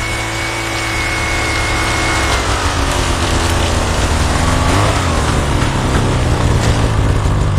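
Chainsaw running at speed, its engine note dropping and wavering about two and a half seconds in as it cuts into wood.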